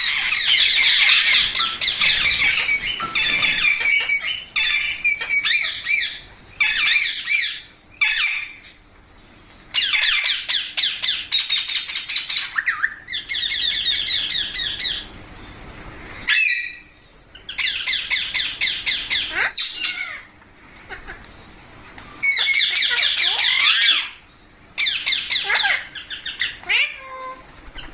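Indian ringneck parakeets squawking and chattering in fast, harsh runs of calls, each run lasting a second or few, broken by short pauses.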